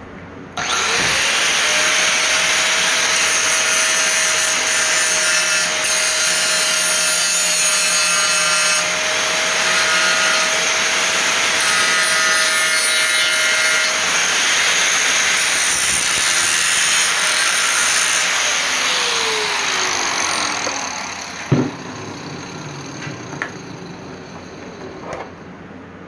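Electric angle grinder spinning up and grinding on thin steel bed-frame brackets to clean them before welding, for about seventeen seconds, then winding down with a falling whine. A single metal clank follows, then a few light taps.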